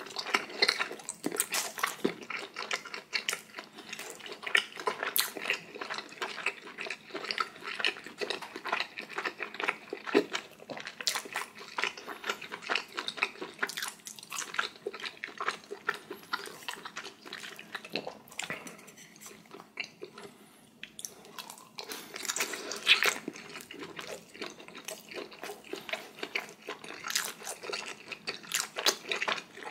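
Close-miked chewing of a spicy dumpling: irregular wet smacks, squelches and small clicks of a mouth eating, with no talking.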